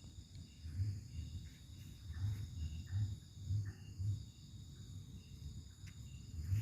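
Insects trilling steadily in high, thin tones over a low, uneven rumble that pulses about twice a second.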